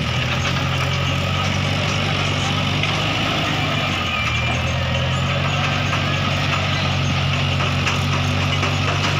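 A Mahindra tractor's diesel engine running steadily at a constant speed, a low, even drone with no revving.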